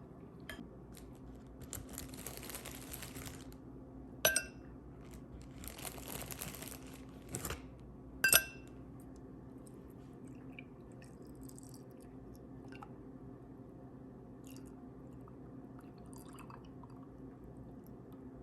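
Kitchen handling sounds: two short stretches of scraping or rustling, and two sharp ringing clinks of glass or crockery, the second the loudest, over a low steady hum.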